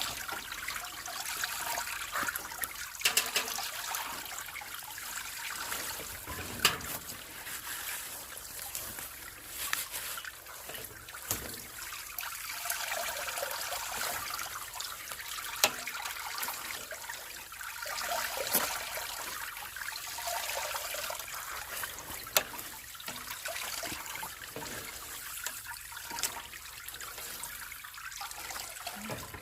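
Malt (yeotgireum) water trickling and splashing into a container as it is squeezed out of the steeped malt, with a few sharp knocks now and then.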